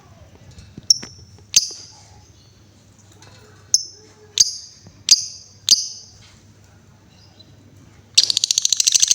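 Female lovebird calling: six sharp, high single chirps over the first six seconds, then about eight seconds in a fast rattling run of clicks, about fifteen a second, the 'ngetik' or typing call.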